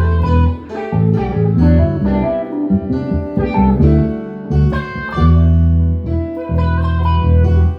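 Instrumental jam: plucked guitar notes played over long, heavy low bass notes that change every second or so.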